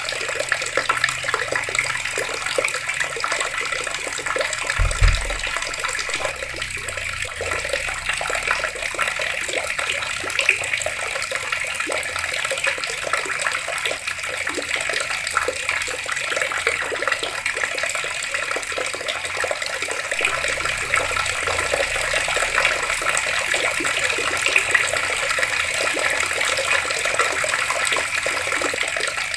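Water running steadily from open taps and splashing down. A brief low thud about five seconds in.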